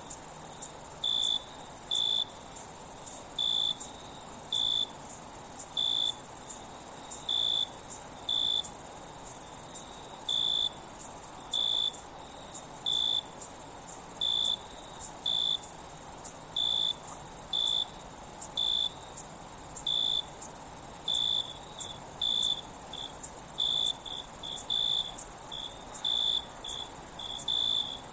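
A chorus of crickets at night: a steady, high-pitched trill, with a lower chirp that repeats about once a second.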